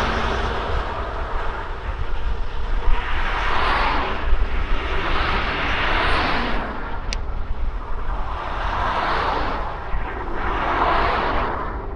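Wind rushing over the microphone during a road ride, a steady low rumble with noisy swells that rise and fade every couple of seconds. There is a brief sharp tick about seven seconds in.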